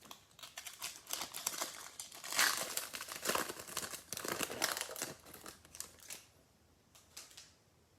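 Crinkly plastic trading-card pack wrapper being handled, crackling irregularly for about six seconds, then two faint rustles near the end.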